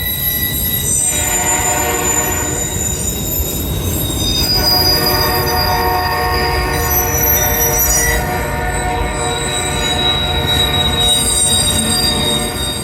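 Freight train rolling past with a steady low rumble and several high-pitched squeals from its wheels that come and go.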